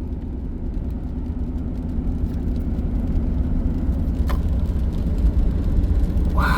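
Steady low road and engine rumble inside a moving car's cabin, with a faint hum and one small tick about four seconds in.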